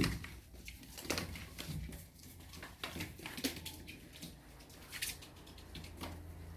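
A sharp knock, then scattered light knocks and rustling over a low steady hum.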